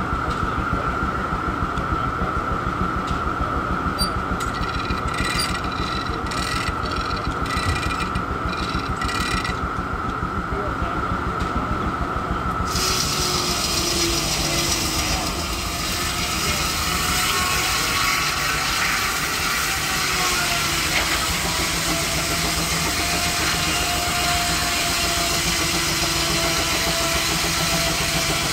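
Steam traction engine driving a sawmill, with the saw running through a log and the machinery going with a fast, steady beat. About halfway through, a steady hiss comes in over it.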